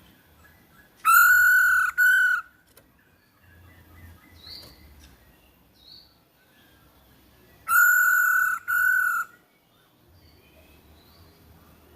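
Poksay hongkong (black-throated laughingthrush) calling: a pair of loud, clear whistled notes, a longer one then a shorter one, given about a second in and again about six seconds later. Faint chirps come in between. It is a stimulus call played to prompt a quiet poksay to answer.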